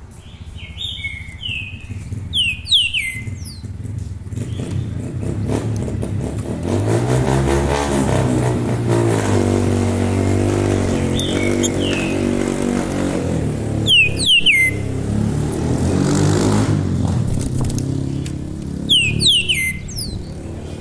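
A caged songbird calls in short clusters of sharp falling whistles, four times. Under it a passing motor vehicle's engine, likely a motorcycle, rises in pitch about seven seconds in, runs steadily as the loudest sound, then fades away near the end.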